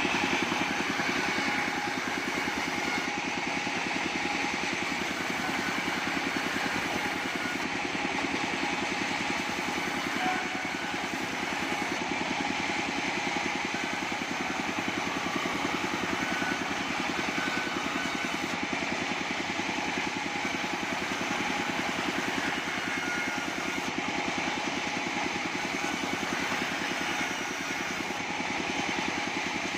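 An engine-driven bandsaw sawmill running steadily.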